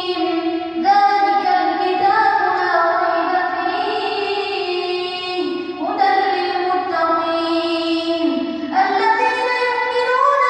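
A male reciter chanting the Quran in melodic tajweed style, holding long ornamented notes that slide and step between pitches without pause.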